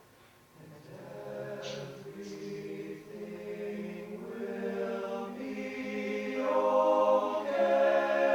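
Unaccompanied vocal ensemble singing in harmony, starting after a brief pause and swelling louder in the second half.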